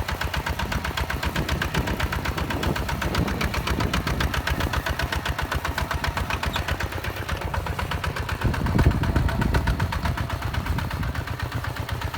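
Hinota HG Gold 155 DI single-cylinder diesel engine running with a rapid, even chug. It swells louder briefly about eight and a half seconds in.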